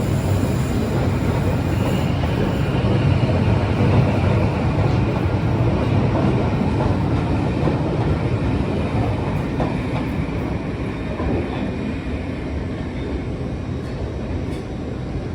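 Class 52 'Western' diesel-hydraulic locomotive D1015 running on its twin MTU V12 diesel engines: a deep, steady drone, loudest a few seconds in and easing slightly toward the end.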